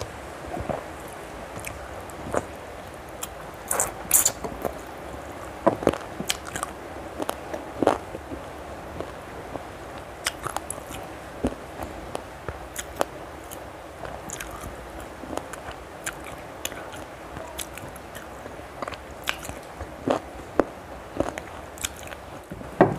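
Close-miked eating sounds: irregular wet mouth clicks, smacks and light crunches of someone chewing chicken curry eaten by hand.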